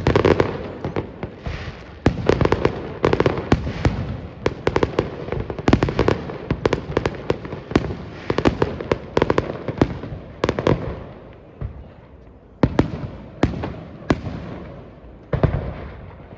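Aerial fireworks bursting: many sharp bangs and booms in quick succession, each with a rolling echo, thinning out about twelve seconds in to a few separate bangs.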